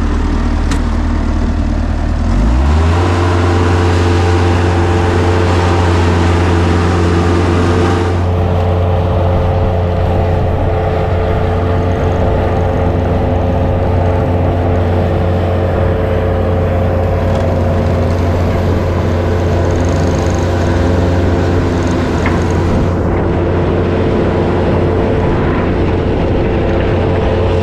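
Snow-removal vehicle engine running steadily; about two and a half seconds in it revs up and then holds at the higher speed.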